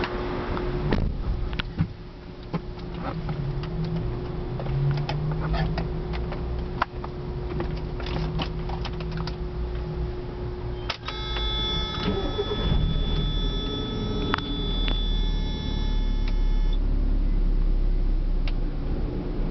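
1994 Mazda MX-5 Miata being started from inside the cabin. It opens with clicks and rattles from handling the keys and controls over a steady hum. About eleven seconds in a steady electronic warning buzz sounds, and the 1.8-litre four-cylinder engine cranks and catches into a steady low idle; the buzz stops a few seconds later.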